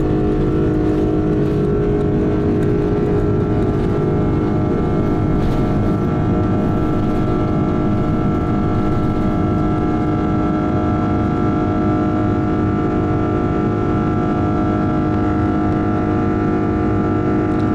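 Airbus A330-300 jet engines running steadily, heard inside the passenger cabin as a constant roar of engine and airflow noise with a steady hum and whine over it.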